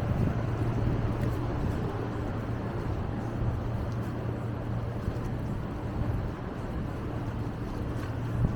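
City street traffic noise with a steady low engine hum, as from an idling or slow-moving vehicle.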